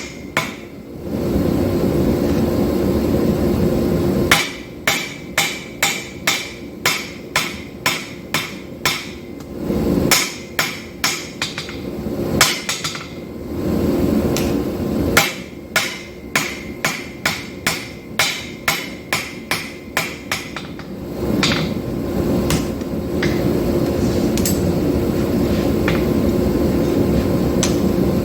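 Hammer blows on hot 5160 knife steel at the anvil, ringing strikes about two a second in several runs, with stretches of steady rushing noise between them.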